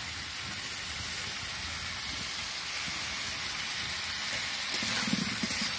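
Potatoes, capsicum and green chillies frying in hot oil in a steel karahi: a steady sizzle.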